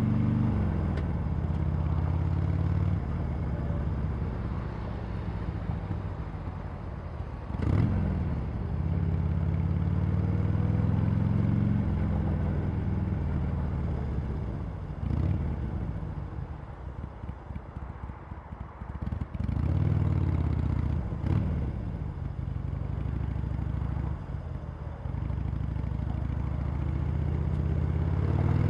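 Harley-Davidson Sportster Iron 883's air-cooled V-twin through its stock exhaust under way: it pulls up in pitch and drops sharply at each gear change, several times over. About halfway through, the throttle eases off and the engine runs lower and more unevenly before pulling again.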